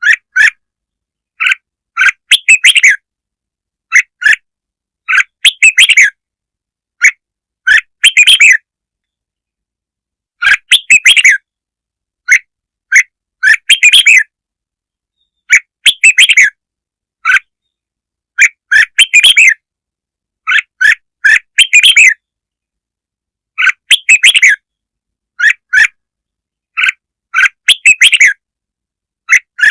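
Red-whiskered bulbul song: short, bright chirping phrases repeated every second or two with dead silence between them. A lure call recording meant to rouse and call in bulbuls.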